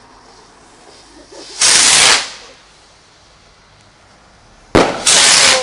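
Fireworks going off: two loud bursts of noise about three seconds apart, the first swelling in and the second starting with a sharp crack.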